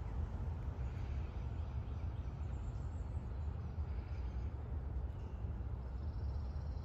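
Outdoor ambience: a steady low rumble, with faint, high-pitched birds chirping a few times.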